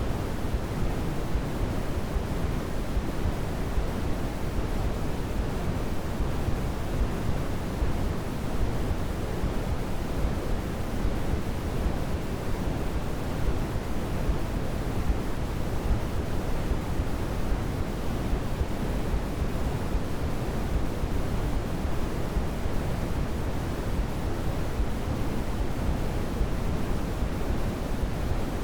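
Continuous white noise sleep-aid sound: a steady, unchanging rushing hiss, fuller in the bass than in the treble.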